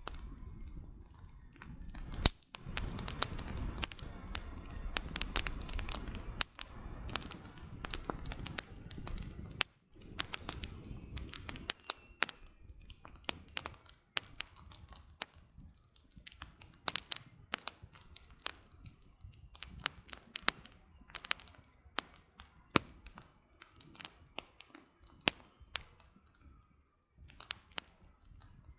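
Wood campfire burning, with dense irregular crackling and sharp pops from the burning firewood, over a low rumble for the first ten seconds or so.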